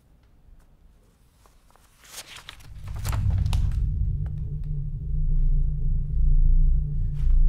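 A few clicks and clunks, then a car engine comes in about three seconds in and runs with a steady low rumble.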